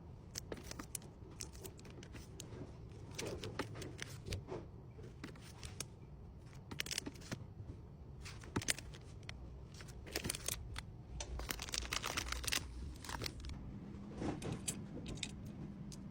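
Light, irregular rustling, tapping and crinkling as small stationery items and plastic wrappers are handled and packed, with a few sharper clicks and small clusters of crinkles.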